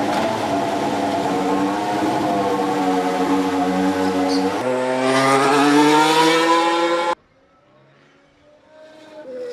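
Mercedes Formula 1 car's engine running at high revs, with a jump in pitch about four and a half seconds in and then rising as it accelerates, until it cuts off abruptly about seven seconds in. After the cut a much fainter engine is heard, its pitch falling near the end.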